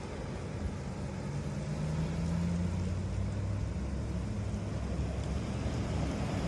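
Low, steady engine rumble of a motor vehicle, growing louder about two seconds in and then holding.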